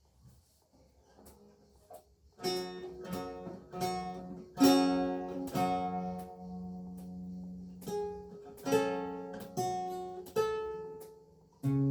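Renaissance lute with gut strings being played: after a couple of quiet seconds with faint small clicks, it plays plucked single notes and chords that ring and die away, with a new phrase starting near the end.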